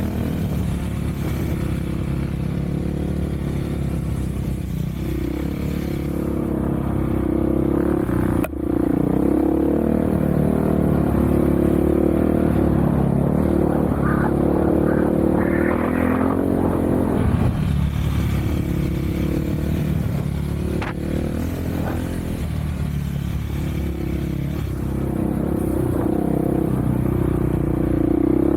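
An off-road vehicle's engine runs continuously while being ridden, its pitch rising and falling with the throttle, along with rattling and scraping from the ride.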